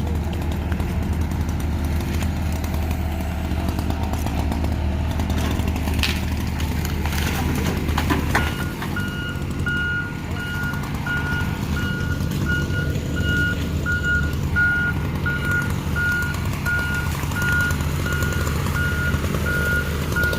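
A vehicle engine running steadily. About eight seconds in, a reversing alarm starts beeping, evenly about twice a second.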